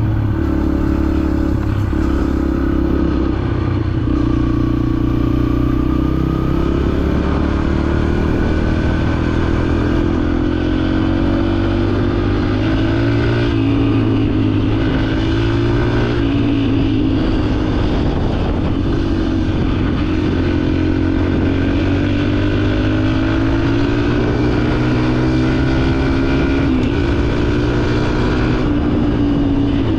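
Yamaha dirt bike engine running while riding, its pitch rising and falling in gentle sweeps as the throttle opens and closes.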